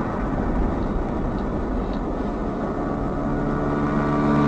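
A motor vehicle engine running over a steady low rumble of road noise, its tone and rush growing louder near the end as it comes closer.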